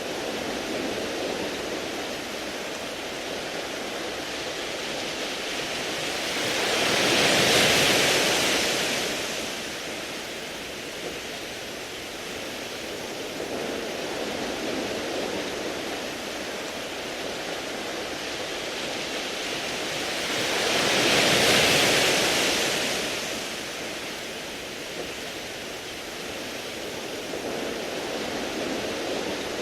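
Sea waves washing over a beach of smooth round pebbles: a steady hiss of surf that swells twice as waves come in, about fourteen seconds apart.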